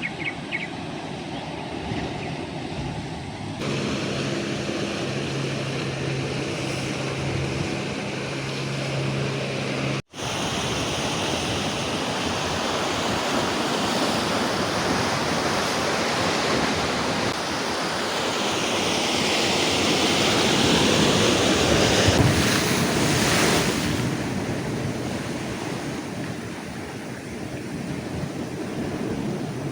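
Waves surging and breaking on a rocky shore, with wind buffeting the microphone; the surf swells loudest about two-thirds of the way through. Before a cut about a third of the way in, a steady engine hum is heard instead.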